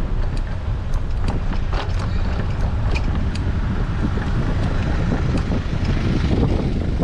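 Strong wind buffeting the microphone of a bicycle-mounted action camera while riding, a steady low rumble, with scattered faint clicks and ticks over it.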